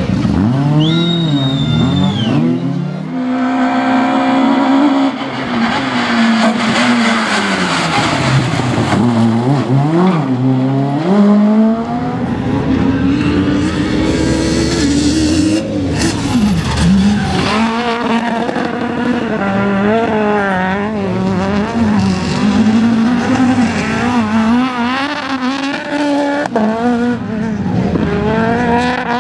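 Rally cars driven hard on a stage, engines revving up and dropping back again and again through gear changes and passes.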